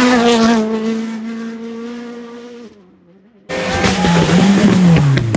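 Rally car engine held at steady high revs, fading as the car moves away. After a brief break, another rally car's engine comes in loud, its revs falling steadily as it slows.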